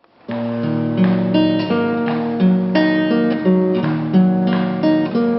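Instrumental introduction on a plucked string instrument: chords and melody notes struck in a steady rhythm, beginning a moment after the start.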